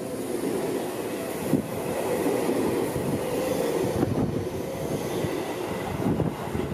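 Seibu 6000 series electric commuter train passing close by: a steady rumble of steel wheels on the rails, broken by irregular knocks as the wheels cross rail joints.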